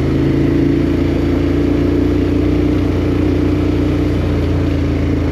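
KTM 1290 Super Adventure R's V-twin engine running steadily as the motorcycle rides along, with no change in pitch.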